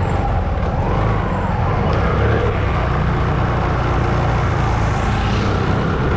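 Steady motorcycle engine and road noise heard from the moving bike, with street traffic around it.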